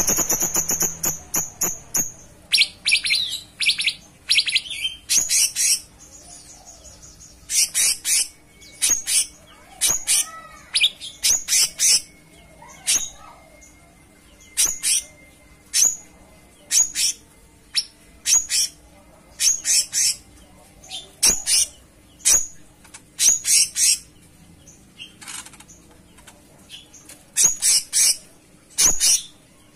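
Cucak cungkok songbird singing: a run of short, sharp, high chirps and trills repeated about once a second, with brief pauses, over a faint steady hum.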